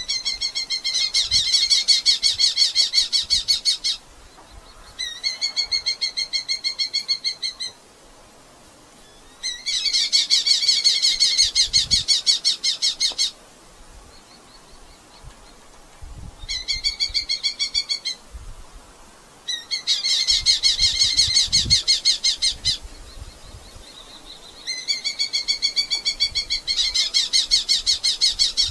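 Red-footed falcon giving fast, evenly repeated chattering calls in about six bouts of a few seconds each, with short pauses between them.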